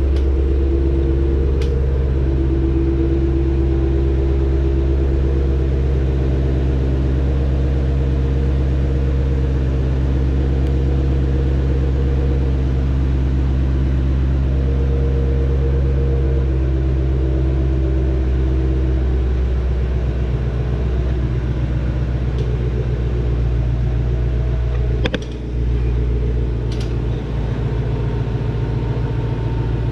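2020 Shelby GT500's supercharged 5.2-litre V8 idling steadily after a cold start. There is a brief dip in the engine note with a click about 25 seconds in.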